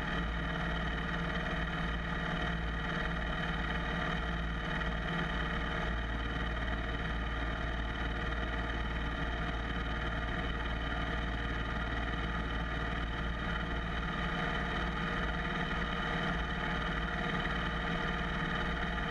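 A motorcycle engine running at a steady, unchanging speed, with a low rumble underneath.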